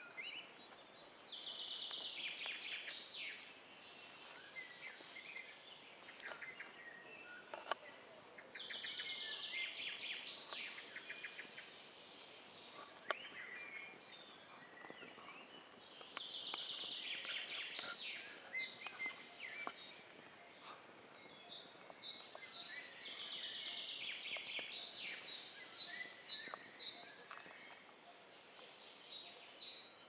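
A bird singing: a high trilling phrase about two seconds long, repeated four times, about every seven seconds. Two sharp clicks fall between the phrases.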